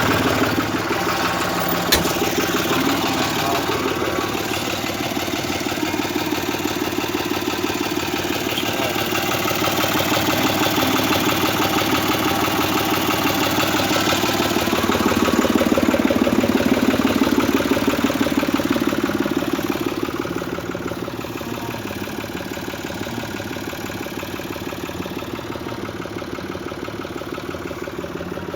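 New Holland 55-56 S tractor's diesel engine running steadily, growing louder for a few seconds past the middle and easing off after that, with a single sharp click about two seconds in.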